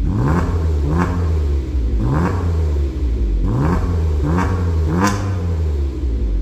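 Hyundai Grandeur IG's 3.0-litre V6 revved through a custom aftermarket valved (variable) exhaust: the exhaust note rises and falls in about six quick throttle blips over a steady low rumble.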